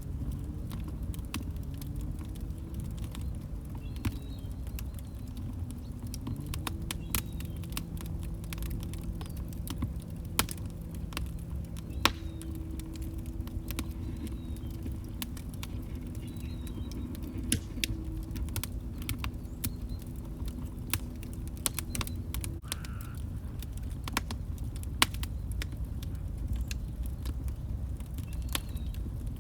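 Log fire crackling, with irregular sharp pops and snaps over a low rumble. Underneath runs a low droning tone of a few pitches that wavers at first, then holds steady and cuts off suddenly about three-quarters of the way through.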